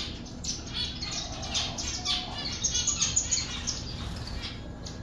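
Many small aviary birds chirping and tweeting, short high calls overlapping throughout.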